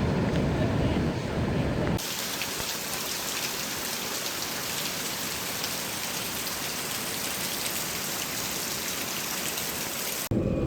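Steady hiss of rain with faint drop ticks, cutting in suddenly about two seconds in after a low rumbling noise and cutting off just before the end.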